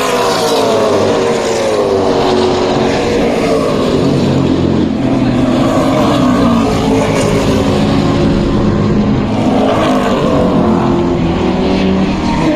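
Historic muscle car's V8 racing engine heard on board, its note falling over the first few seconds as the driver lifts off, holding at lower revs, then rising briefly about ten seconds in before dropping again near the end.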